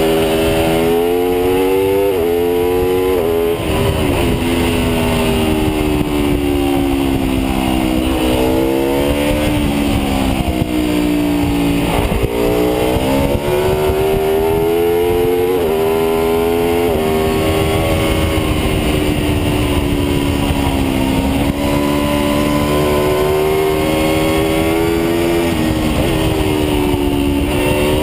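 Aprilia RSV4's V4 engine heard onboard at speed. Its pitch climbs under throttle and drops sharply at each upshift, twice in the first few seconds and again a few times later, and it sags and picks up again through the bends. A steady rush of wind noise runs underneath.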